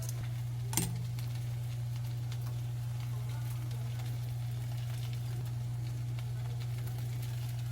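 A steady low hum, with a single sharp click a little under a second in and a few faint ticks.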